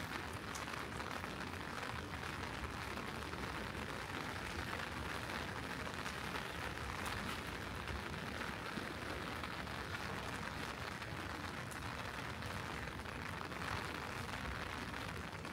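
Steady rain falling, an even hiss with the odd sharper drop tick.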